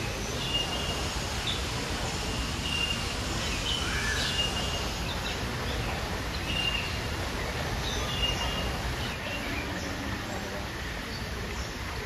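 Birds calling in a conservatory aviary: a short, high, even note repeated every second or two, with a few other brief chirps, over a steady low rumble.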